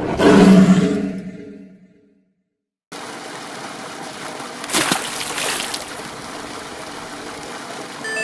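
A lion's roar, loud at first and dying away within about two seconds. After a short silence a steady rushing, water-like noise starts, swelling louder about five seconds in.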